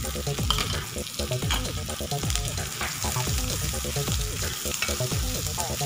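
Sliced onions and chopped garlic sizzling steadily in hot oil and butter in a wok, with a spatula stirring them around the pan. Background music with a steady beat runs underneath.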